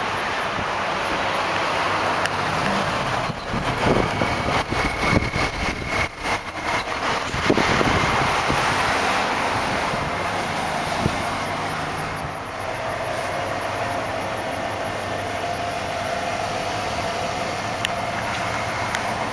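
Steady road traffic noise from a nearby highway, with a louder stretch about four to eight seconds in as a vehicle goes past.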